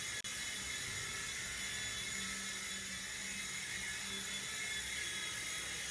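A steady whirring hiss with a few faint high thin tones, dropping out for an instant near the start.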